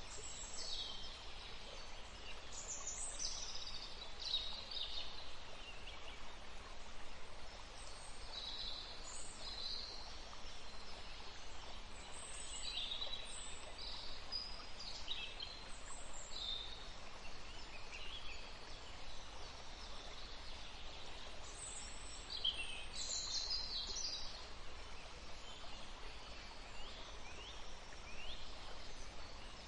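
Several songbirds chirping and singing with short high calls and quick falling notes, scattered irregularly over a steady faint background hiss and low rumble of forest ambience.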